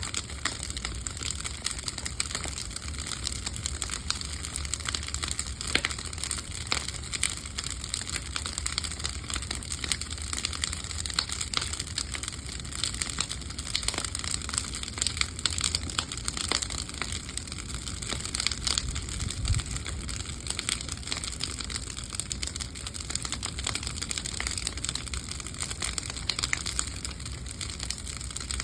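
Bonfire of old wooden pallets burning, crackling and popping continuously with many irregular snaps over a steady low rumble.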